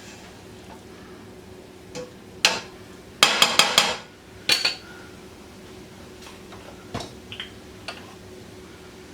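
Utensil clinking and knocking against a cooking pot while the flour roux is stirred: a few single clinks, then a quick run of about five knocks a little after three seconds in, and lighter taps near the end.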